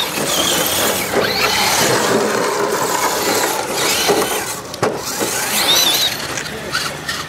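Electric RC rock crawler trucks driving, their motors and geared drivetrains whining, with pitch wavering as the throttle changes.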